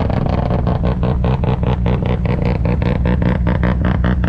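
Car engine with a big camshaft idling loudly with a choppy, pulsing exhaust lope.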